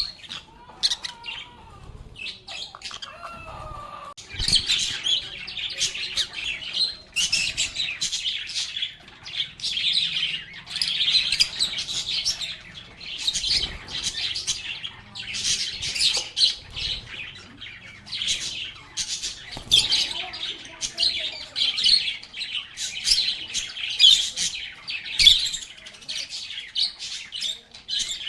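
A group of lovebirds chattering with rapid, high chirps and squeaks, sparse at first and then dense and continuous from about four seconds in.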